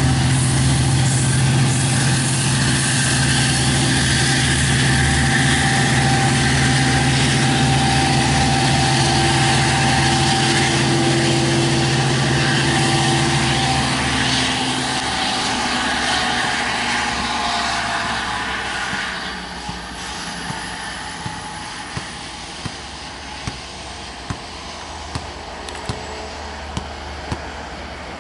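Diesel locomotive engine running steadily at a low, even pitch. About halfway through, the engine tones drop away and the sound grows quieter, and a run of light clicks follows, roughly one a second.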